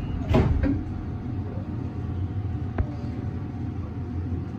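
Steady low rumble inside the cab of a Meitetsu 300 series electric train standing at a platform. There is a short burst of noise just after the start and a single sharp click near three seconds in.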